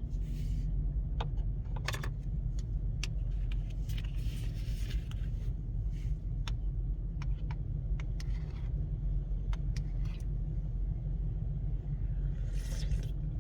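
Steady low rumble with scattered light clicks of a utensil against the electric kettle's cooking pot, and two short hisses, one about four seconds in and one near the end.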